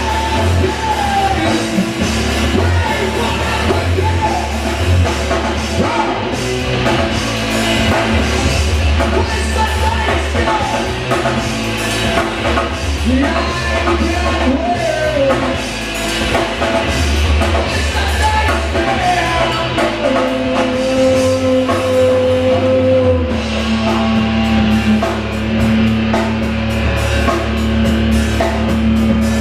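A rock band playing loudly live: drum kit and bass under a sung vocal line that slides between notes, with one long held note about two-thirds of the way through.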